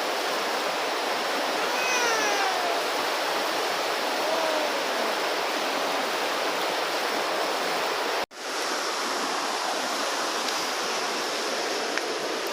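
Steady rushing noise like flowing water, with a couple of falling whistled calls about two and four and a half seconds in. The sound drops out abruptly for a split second after about eight seconds, then resumes.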